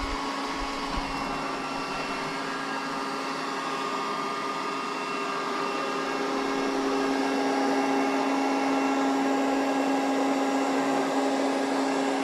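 SABI G205 robot vacuum cleaner running on auto clean: a steady motor hum with several held tones, getting a little louder about halfway through.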